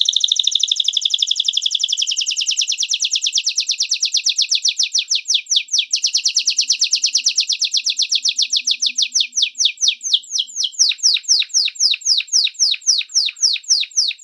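Small songbird singing a long, rapid trill of high, repeated downward-sweeping notes, which slows into separate chirps over the last few seconds.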